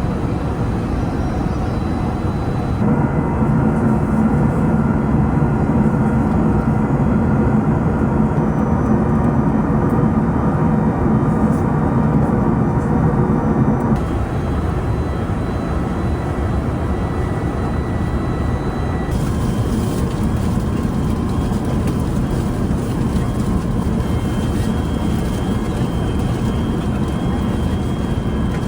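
Steady roar of an Airbus A380's engines and airflow heard inside the passenger cabin. The tone of the roar shifts abruptly three times.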